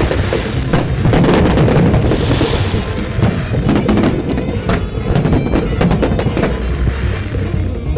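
Fireworks bursting and crackling in quick succession over loud, up-tempo big-band jazz music with brass and drums.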